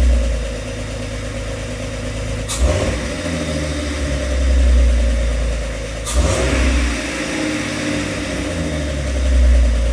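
Jeep Wrangler TJ's replacement 4.0-litre inline-six running on its first start-up. Its speed rises and falls, and it gives two sharp bangs, about two and a half and six seconds in, which the owner takes for probably just a little fuel in the cylinder.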